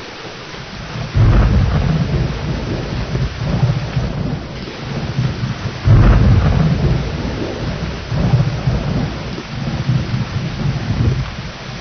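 Steady rain with thunder: two peals break in, one about a second in and another about six seconds in, each rumbling on for several seconds before fading back into the rain.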